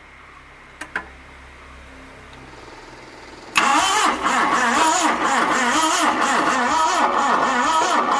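Two clicks, then about three and a half seconds in the starter motor cranks the Isuzu 1.8-litre petrol engine of a long-stored Hindustan Contessa Classic, its pitch rising and falling over and over. The engine does not catch: the battery lacks the power to turn it over properly.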